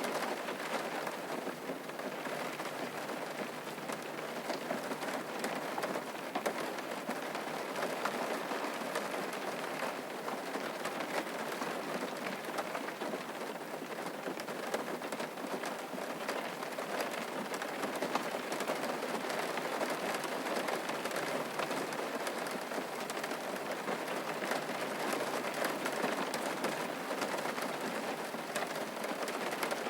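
Steady rain falling on a surface, an even patter of many drops.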